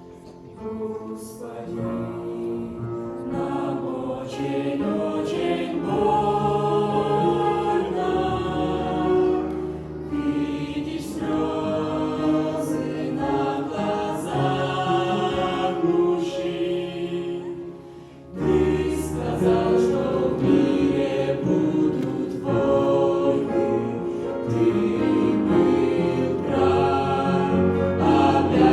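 Choral music: a choir singing sustained, slow-moving chords in a religious style, with a short pause about 18 seconds in.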